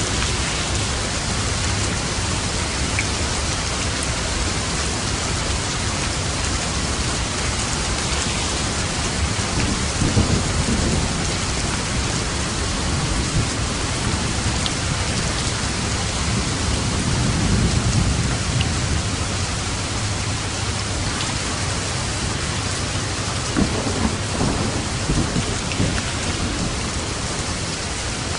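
Steady rain falling, with low rolls of thunder rumbling up about a third of the way in, again past the middle, and near the end.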